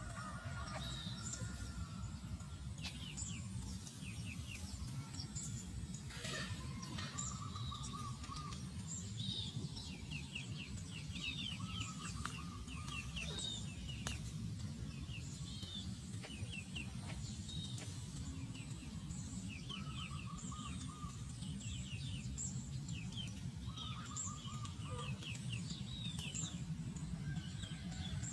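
Birds chirping in short quick series throughout, over a steady low rumble.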